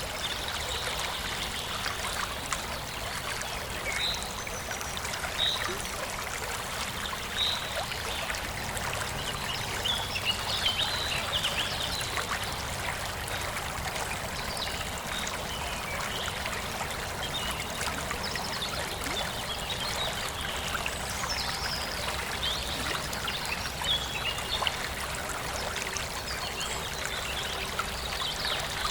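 Forest stream flowing and trickling steadily, with small birds chirping now and then over the water.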